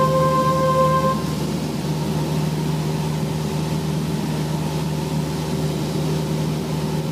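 Steady drone of a Cessna 172's four-cylinder piston engine and propeller, heard inside the cabin. A held steady tone stops about a second in.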